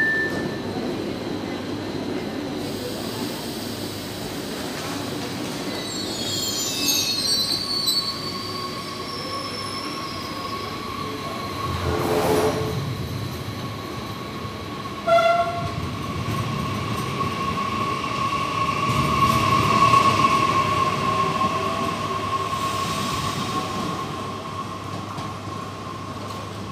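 Double-deck electric regional train pulling out of the platform: a steady running rumble, a burst of high wheel squeal about seven seconds in, and a clank around twelve seconds. A steady whine then grows, is loudest around twenty seconds, and eases off near the end.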